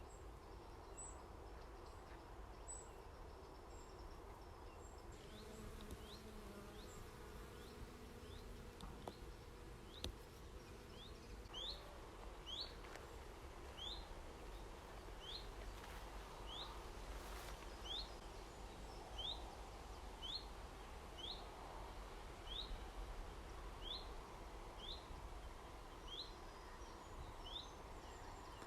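Faint outdoor ambience with a bird repeating a short, high call note about once a second, starting a few seconds in and stopping just before the end.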